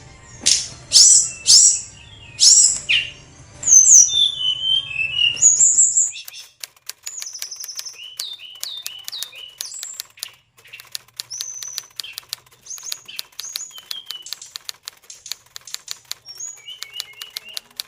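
Oriental magpie-robin (kacer) singing: loud whistled, sliding phrases for about the first six seconds, then softer, scattered phrases with gaps between them. Rapid fine clicking runs under the song.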